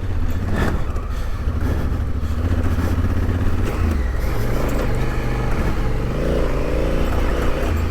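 Large adventure motorcycle engine running at low revs while being ridden over a rough dirt track, with tyre and track noise over it. Near the end a wavering higher engine note comes in as the revs shift.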